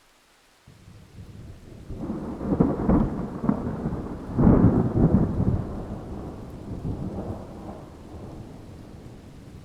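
A thunderclap rolls in about a second in, rumbling with loud cracking peaks around two and four-and-a-half seconds, then slowly dies away, with rain hissing underneath.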